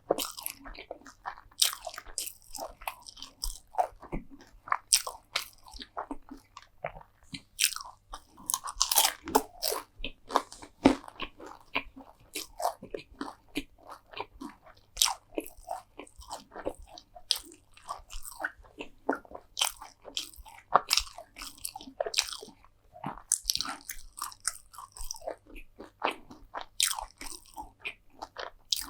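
A person biting and chewing crisp food, with a dense, irregular run of sharp crackly crunches.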